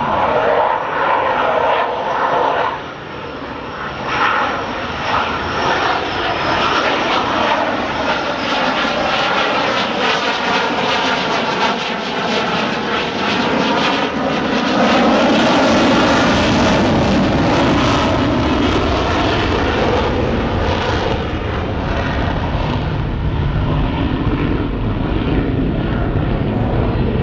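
Military fighter jet flying past, its jet engine noise loud throughout, with a sweeping, phasing tone in the middle of the pass and a deep rumble building from about halfway on.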